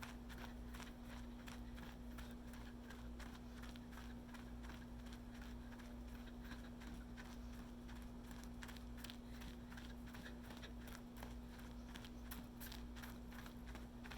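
Running footsteps: a faint, quick series of soft steps, over a steady low hum.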